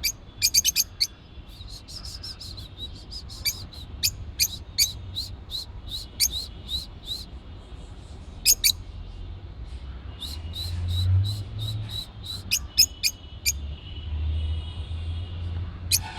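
Pet birds chirping: short, sharp, high chirps repeated in runs of about two a second, with brief pauses between runs, over a low rumble.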